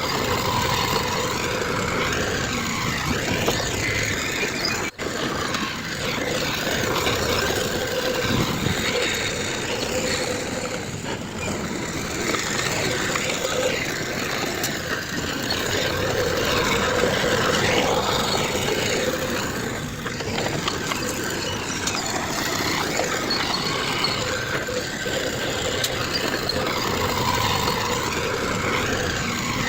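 Heavy diesel earthmoving machinery running steadily under load, with a constant engine drone. The sound drops out for an instant about five seconds in.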